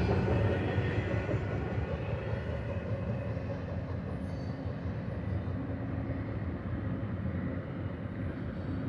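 Rumble and rail noise of a double-stack container train's wheels going away as its last cars pass, fading over the first couple of seconds and then lingering as a steady distant rumble.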